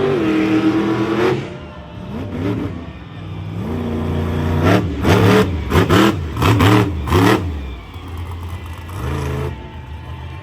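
Monster truck engine revving hard, climbing high at the start and then dropping back. About halfway through it gives a run of quick, loud rev blips, rising and falling several times, before settling lower and rising again near the end.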